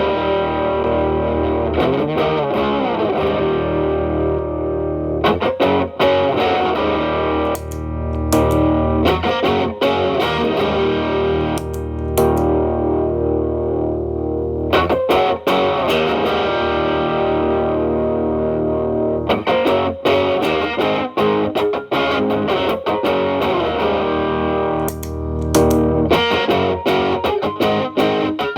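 Telecaster electric guitar through an Xotic BB-series overdrive pedal (gain at 12) and a Marshall Valvestate on its clean channel, played with a mildly distorted tone. Picked chords ring out between string bends and short licks.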